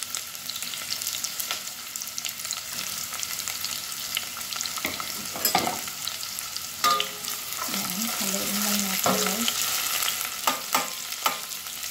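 Sliced onion and garlic sizzling in hot oil in a stainless steel pot, being sautéed until browned. From about halfway in, a metal spoon scrapes and taps against the pot as they are stirred.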